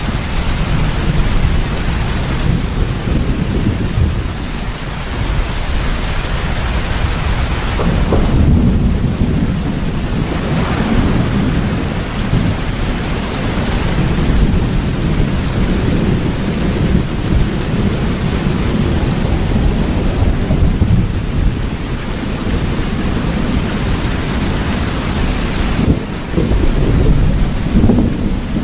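Steady heavy rain with low rolling thunder rumbling underneath, the rumble swelling about eight seconds in and again near the end.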